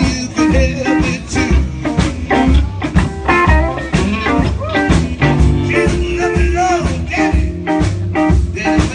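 Live blues band playing: electric guitar, bass and drums with a steady beat, and some singing.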